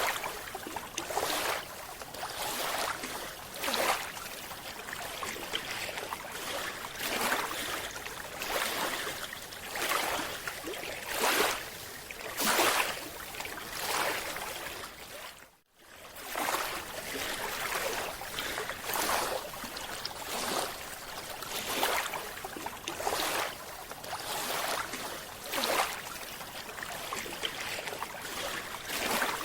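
Water noise that swells and falls in repeated surges, roughly one per second, with a brief cut about halfway through.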